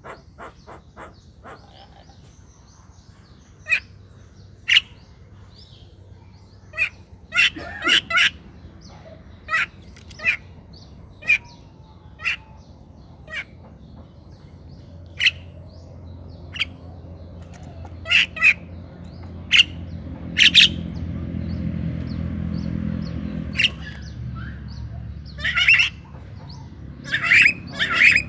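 Birds calling with short chirps and squawks, scattered one to two a second throughout, over a low rumble that builds in the second half and then fades.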